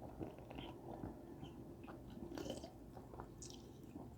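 Faint chewing of food, with small scattered mouth clicks and smacks.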